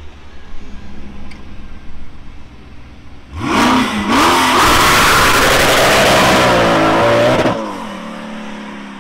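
A car engine idling low, then revving hard and suddenly about three and a half seconds in. The loud run lasts about four seconds, its pitch rising and wavering, then drops away.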